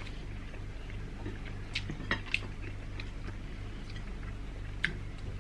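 A person chewing and eating at close range, with a few short wet clicks and smacks from the mouth, over a steady low hum.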